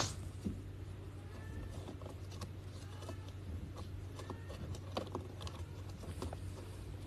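Small irregular taps and scratches of a kitten's claws and teeth on a corrugated-cardboard scratcher, over a low steady hum.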